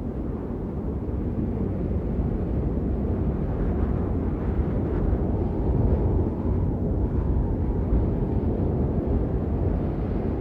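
Steady heavy rain, a deep, muffled rushing with little high hiss, swelling slightly midway.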